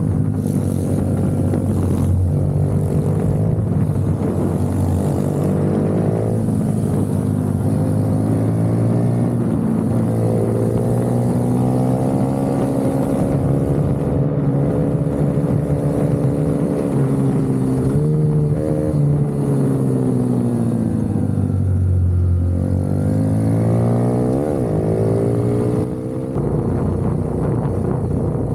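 Minibike engine heard from onboard at race pace, its pitch rising under acceleration and dropping as the throttle is closed for corners, over and over, with one deep drop and quick rise near the end.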